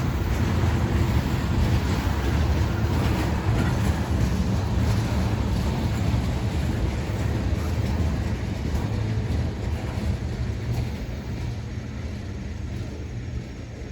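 Freight train rolling past with a steady low rumble of wheels on rail, fading away over the last few seconds.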